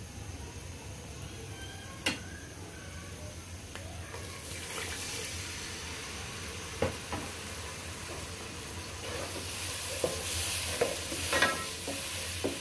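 Onion, garlic and spice masala sizzling in hot oil while a wooden spatula stirs it, knocking and scraping against the pan now and then. The sizzle grows louder toward the end, with a cluster of knocks near the end.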